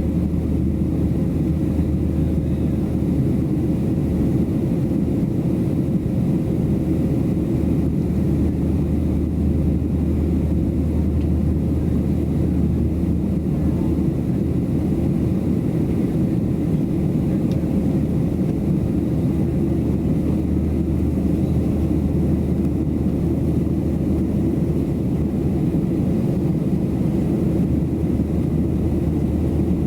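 Steady low roar of cabin noise inside a Boeing 737-700 in flight: its CFM56 jet engines and the airflow over the fuselage, unchanging, with a faint steady hum on top.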